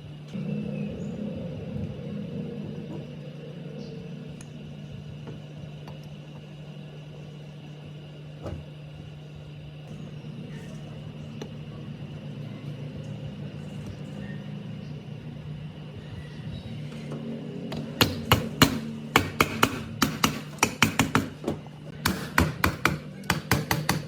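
A small electric motor running with a steady hum. From about three quarters of the way in, a rapid, irregular run of sharp metallic taps or knocks starts and is the loudest sound.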